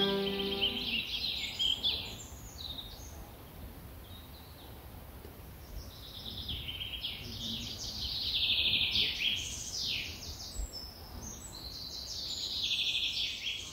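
Small birds chirping and trilling in quick high phrases, bunched in three spells and loudest around the middle and near the end, over a faint low rumble. A held musical chord fades out about a second in.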